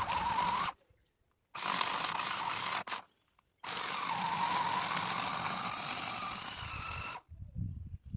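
Battery-powered extending pole chainsaw cutting branches in three trigger bursts: twice briefly, then a longer run of about three and a half seconds. Each burst stops dead when the trigger is released, and the motor's pitch dips as the chain bites into wood.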